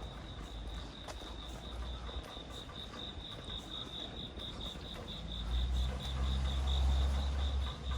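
A cricket chirping in a steady, rapid pulsing trill over the hiss of light rain. From about five seconds in, a low rumble swells up and becomes the loudest sound, then drops away near the end.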